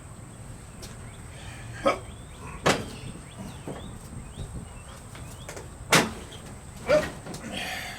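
A few sharp knocks and clacks, the loudest about six seconds in, over a low steady background.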